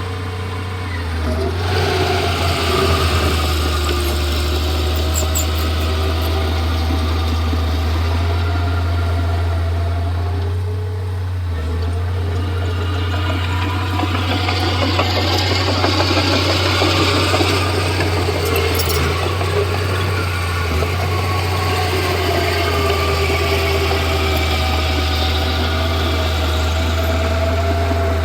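Komatsu D31P bulldozer's diesel engine running steadily under work, its sound growing harsher and louder twice, about two seconds in and again midway, as it takes load.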